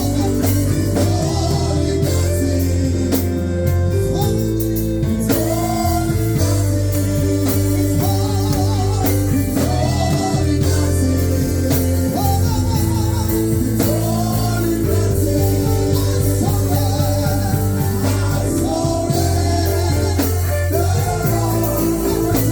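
Live worship band, with bass, guitar and drums, playing under singing voices.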